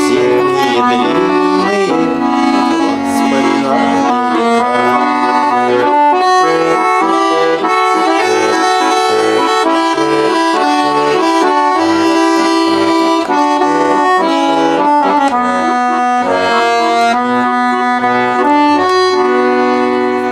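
Russian button accordion playing an instrumental passage of a slow waltz, a melody line over held chords.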